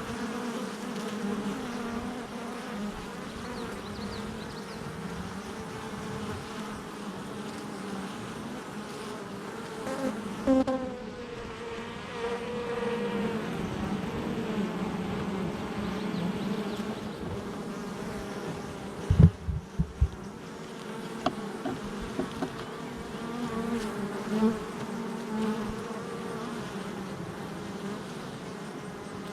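Honey bees buzzing at a hive entrance: a steady hum of many worker bees, with single bees' wavering drones rising and falling as they fly in and out close by. A few sharp thumps stand out about two-thirds of the way through.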